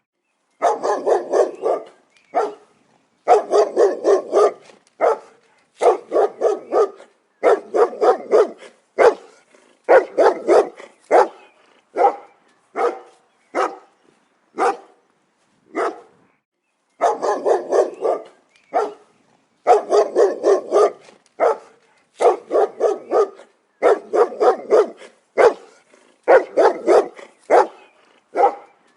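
A dog barking: repeated sharp barks in quick clusters of two to five, with short silent pauses between the clusters.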